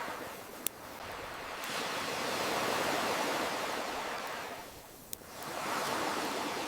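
Ocean waves washing in and drawing back, one swelling through the middle and ebbing about five seconds in before the next comes in. Two sharp pops from a crackling wood fire, one under a second in and one about five seconds in.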